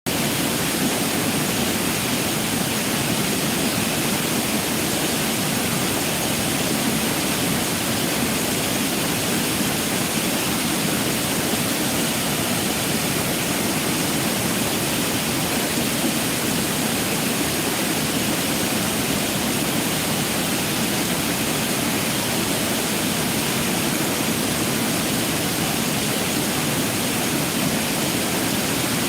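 Jägala waterfall: water pouring over the falls in a steady, unbroken rushing noise.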